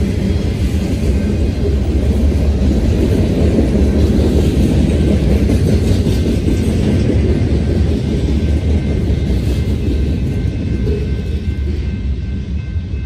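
BNSF mixed freight train cars (tank cars, boxcars and centerbeam lumber cars) rolling past on the rails: a loud, steady rumble of steel wheels on track. The sound begins to die away near the end as the tail of the train passes.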